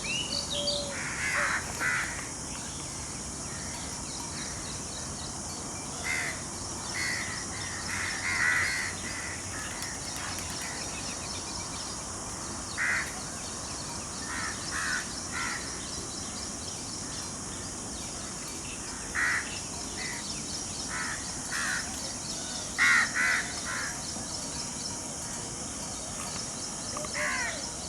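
Harsh cawing bird calls in short runs of two or three, repeated every few seconds, over a steady high-pitched hiss.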